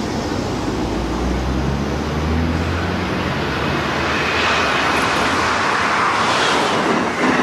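Railway train approaching and running past, a low engine hum giving way to a growing rush of wheel and rail noise, with a brief thin squeal about four seconds in.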